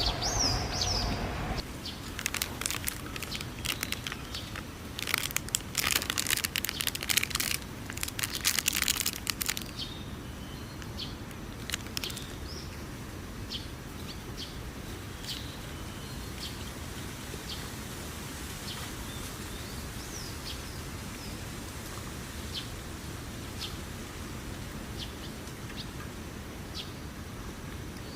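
Small birds chirping, short high calls every second or so. For the first several seconds, louder bursts of rustling and clicking handling noise cover them.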